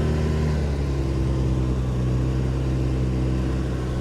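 Snowmobile engine running at a steady speed while breaking trail through fresh snow, easing slightly in pitch about half a second in.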